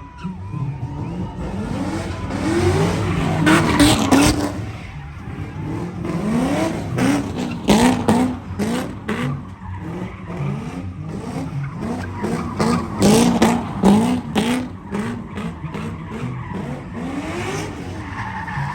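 A truck engine revved hard over and over, its pitch surging up and falling back about once a second, with tires squealing and sharp cracks through it, as in a burnout.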